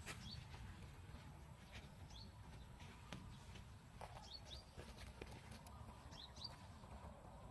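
Faint bird chirps: short rising notes, often two in quick succession, about every two seconds. Under them are a low steady rumble and scattered light clicks.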